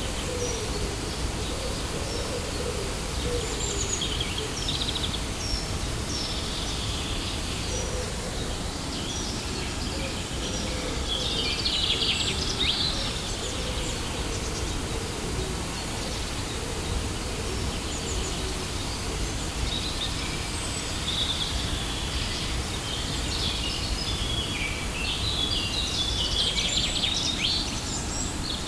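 Steady noise of falling water from a waterfall, with small birds chirping over it in short high calls, busiest about twelve seconds in and again near the end.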